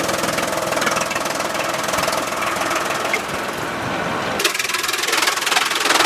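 Sawmill machinery with an engine running steadily, with a rapid pulsing throb. About four and a half seconds in, the sound changes abruptly, then it runs loud and steady again near the end.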